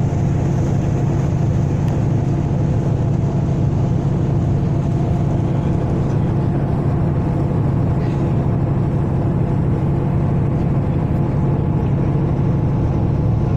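A ferry's engines droning steadily under way, a constant low hum that neither rises nor falls.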